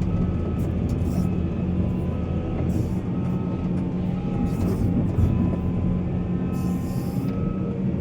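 Heavy diesel earthmoving machinery running steadily under load, with short hissing bursts now and then.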